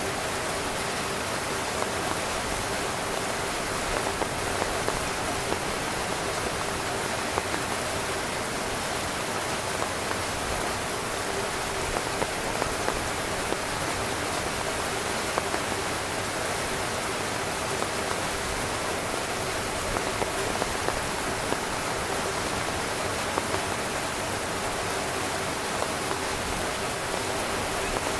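Heavy rain falling on a tent: a steady, dense patter with louder single drops striking every so often.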